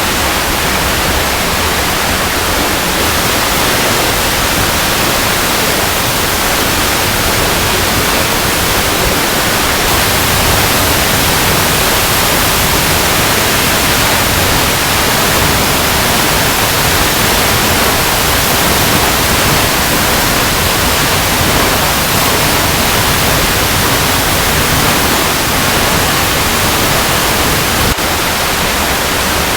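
Waterfall cascading over rocks: a steady, dense rush of falling water.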